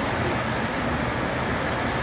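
Steady rumbling run of model trains on a large layout, with no single sharp event.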